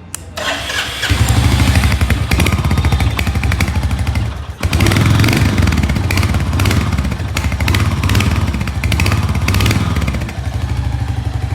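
Royal Enfield Hunter 350's 350 cc single-cylinder air-oil-cooled engine running loud through its exhaust from about a second in, with a short drop about four and a half seconds in and a lower, steadier level near the end. This is the bike's stock exhaust note, which the reviewer calls sporty.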